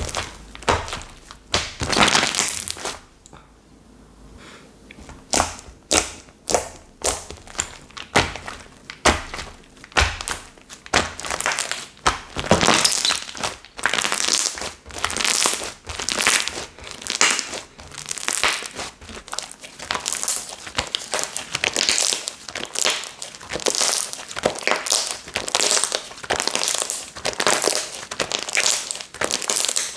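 Slime being squished and pressed by hand, giving a run of crackling, popping sounds. There is a short lull about three seconds in, then the pops come faster and closer together.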